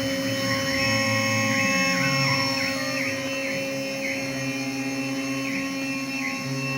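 CNC router machining a mould: the spindle and drives give a steady mechanical whine. Some of its higher tones dip briefly and recover every second or so, and a lower hum shifts in steps as the machine moves through its cut.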